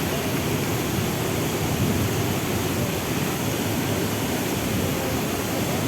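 Waterfall pouring steadily: an even, unbroken rush of falling water, heaviest in the low range.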